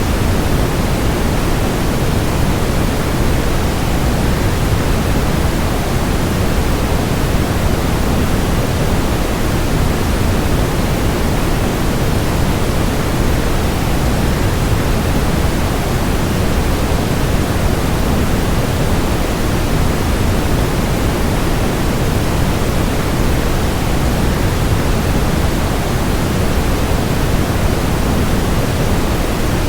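Steady rush of a waterfall blended with white noise: an even, unchanging hiss, heavier in the low end.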